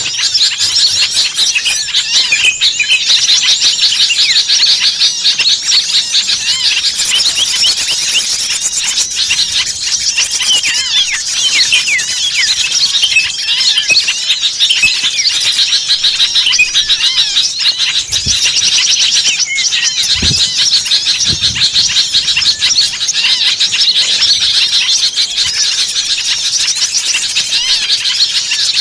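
A dense, agitated chorus of many small songbirds calling at once: rapid overlapping chirps and trills with no pause. It is the noisy mixed-bird call recording played as a lure to draw small birds in.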